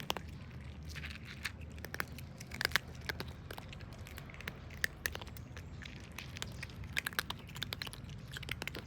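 Cats crunching dry food: irregular, quick crackling clicks, over a low steady hum.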